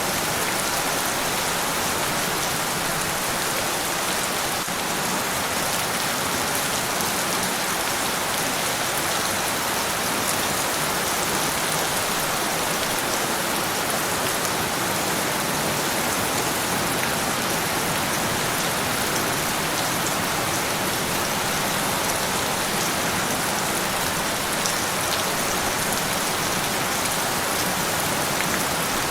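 Steady rainfall, a dense even patter of drops landing on a surface, with faint individual drop ticks in it.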